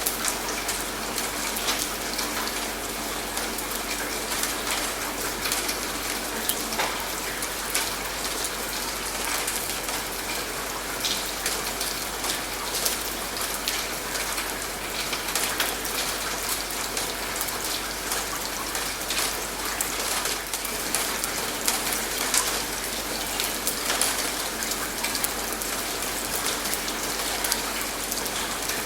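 Steady rain falling, with many individual drops ticking and pattering close by.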